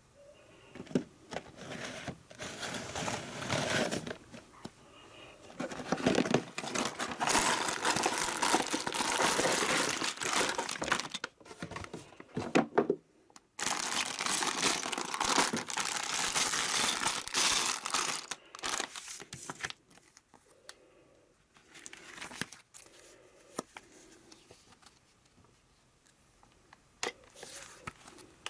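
Plastic bags of LEGO pieces crinkling and tearing open as the set is unboxed, in three long stretches with scattered clicks, then quieter handling.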